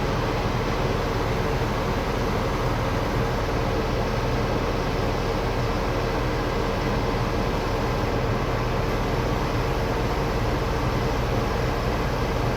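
LS XP-series tractor's diesel engine running at a steady speed, with an even hum and no change in pitch.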